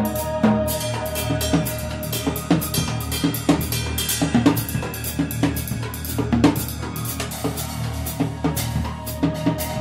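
Music with a drum kit playing a busy pattern of cymbal, snare and bass-drum hits, several a second, over a steady low bass line.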